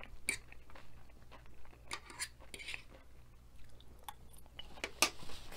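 Close-up chewing and crunching of a mouthful of nachos, with scattered clicks of a metal fork on the tray. A sharper click comes about five seconds in.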